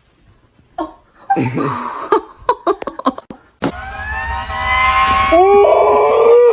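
A few sharp clicks and knocks, then a long drawn-out cat yowl that rises slowly and, near the end, wavers up and down in pitch.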